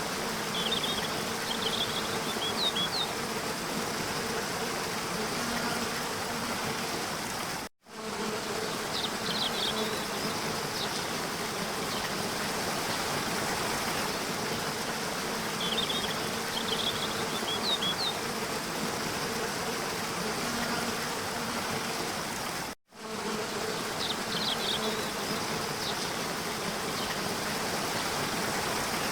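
Waterfall rushing steadily, with a faint low drone beneath and short high chirps that come back every several seconds. The sound cuts out for a moment twice, where the recording loops.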